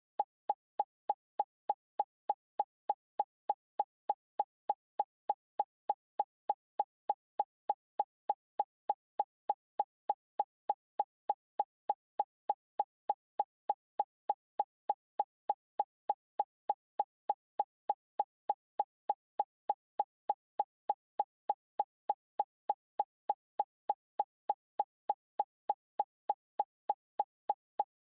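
A steady, evenly spaced electronic plop, about three a second, each one identical, like a looped sound effect or beat laid over the video.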